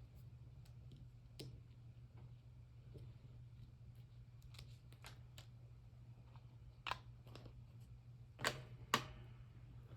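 Craft supplies being handled on a tabletop: scattered light clicks, then three sharper taps near the end, over a steady low hum.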